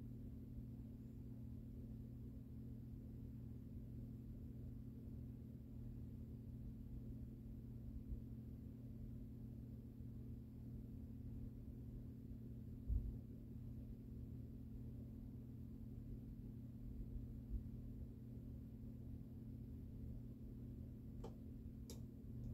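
Harbor Breeze Wheatland ceiling fan running with a faint, steady motor hum. A low thump comes about halfway through, and two short clicks come near the end.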